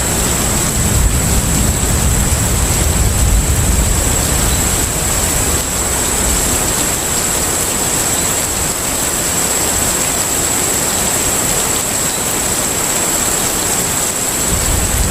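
Container ship at sea ambience: a steady rushing hiss of water with a low rumble that swells in the first few seconds, eases, and builds again near the end, over a faint steady high whine.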